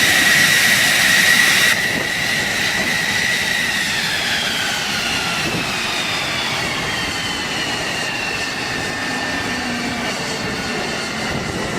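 F-15 fighter jet engines: a loud high whine over rushing noise that drops off suddenly about two seconds in, then several whine tones glide slowly downward.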